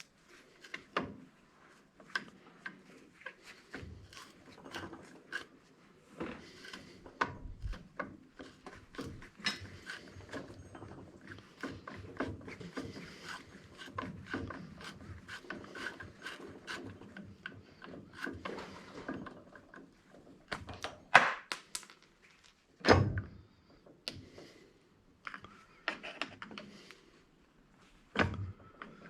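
Hand work on a disassembled angle grinder: tools and metal parts scraping, clicking and tapping on a workbench, with a few louder knocks in the last third.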